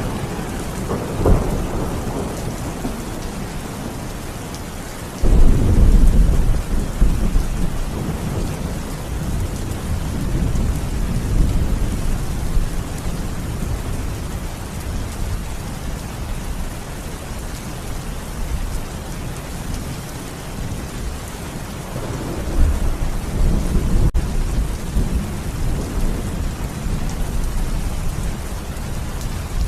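Steady rain during a thunderstorm, with a crack of thunder about a second in, then a sudden, long rolling thunder rumble about five seconds in that slowly fades, and another rumble building about twenty-two seconds in.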